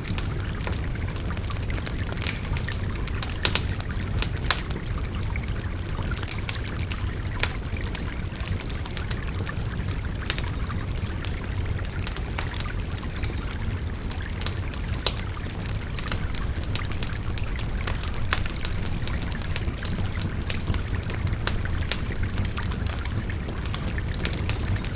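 Wood fire crackling with frequent small sharp pops, over the steady rush of a babbling stream.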